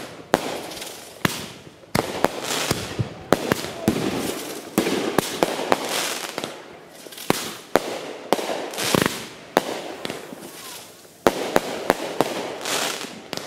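Aerial fireworks shells bursting in quick, uneven succession: about twenty sharp bangs, with a steady wash of noise between them.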